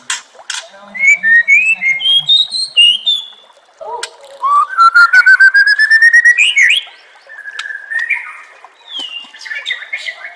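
A songbird singing quick varied whistled and chirped phrases, with a fast run of about a dozen notes climbing steadily in pitch about halfway through.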